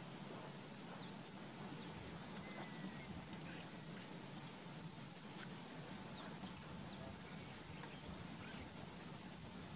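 Faint lakeside ambience: scattered short, high chirps and calls of wild birds over a steady low hum.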